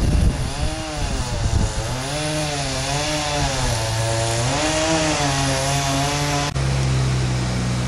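Power saw cutting wood, its motor pitch wavering up and down under load, then dropping to a steady lower hum just after a sharp click about six and a half seconds in.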